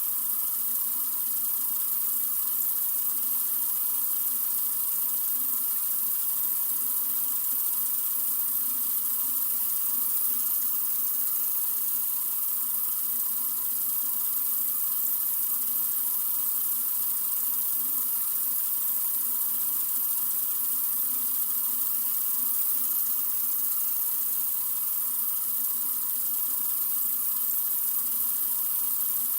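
Sink faucet running steadily, a constant stream of water with an even, mostly high-pitched hiss.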